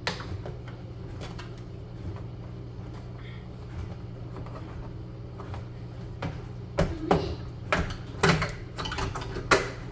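Sharp clicks and knocks of hard plastic as a microwave handle's plastic casing is pried at, one near the start and a quick run of about five in the last three seconds, over a steady low hum.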